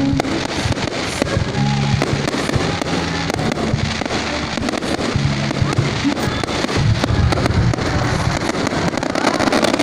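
Fireworks going off continuously in many sharp bangs and crackles, over music with held low notes.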